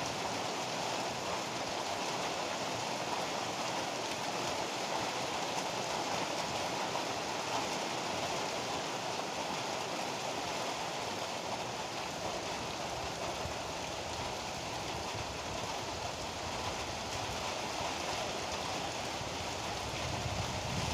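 Heavy rain pouring steadily in a continuous hiss. Near the end a low rumble of thunder starts to build.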